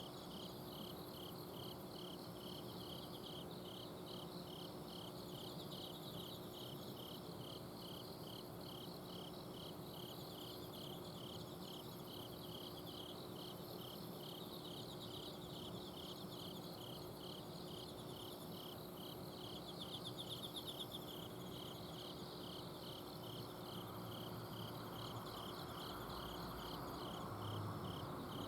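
Autumn crickets and other night insects chirping: one insect keeps an even pulsed chirp at about two to three a second while others trill higher over it. A low steady hum from an air-conditioner outdoor unit runs underneath.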